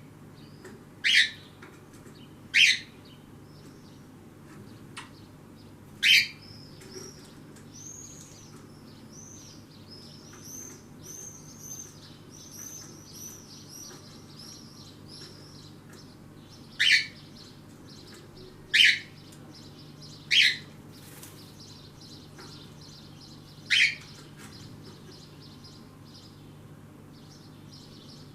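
Birds calling: short, loud single calls every few seconds, with a stretch of quieter, quick twittering chirps in between, over a faint steady hum.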